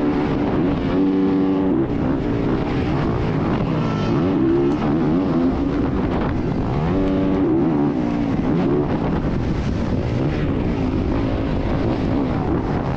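Dirt bike engine being ridden hard, its pitch rising and falling over and over as the throttle opens and closes through the gears.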